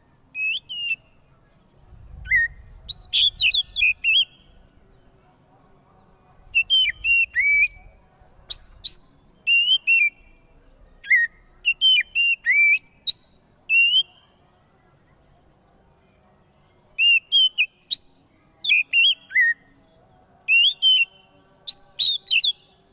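Oriental magpie-robin (kacer) singing in loud, agitated bursts of clear whistled notes that sweep quickly up and down, in clusters with a pause of a few seconds in the middle; this is the kind of call used as a lure for the species. A faint low rumble sits under the first few phrases.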